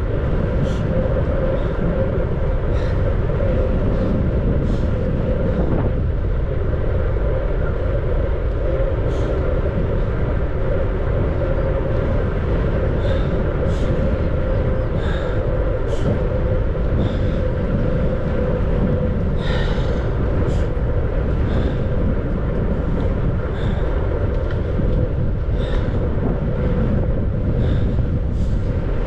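Wind rush and road rumble from a bicycle in motion, with a steady hum and short light clicks every second or two.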